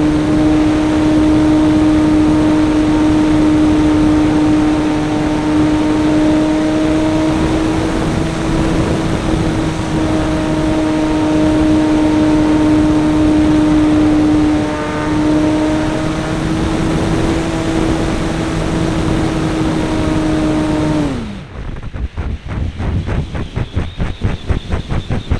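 A model airplane's engine running at steady high throttle, heard from on board, its pitch wavering slightly. About 21 seconds in the throttle is pulled back and the note falls away to a rapid, even pulsing at low speed.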